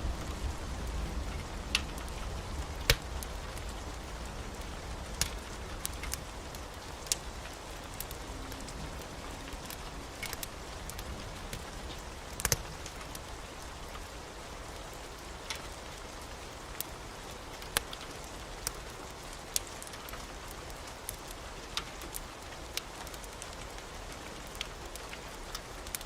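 Steady heavy rain with a low thunder rumble dying away over the first few seconds. Sharp pops from a crackling wood fire come at irregular moments throughout.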